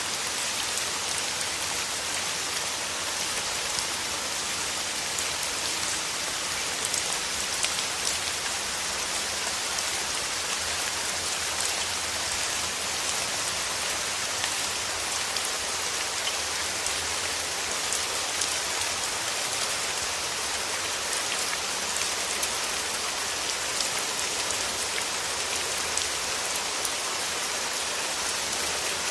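Steady rain, an even hiss with many small drops ticking through it.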